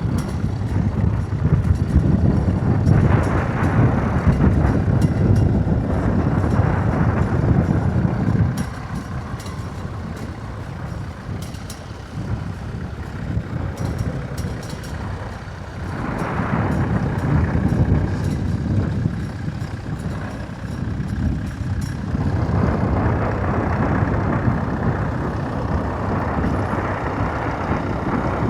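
Tractor engine working under load while ploughing. It grows louder for the first several seconds, eases off, then grows again from a little past the middle.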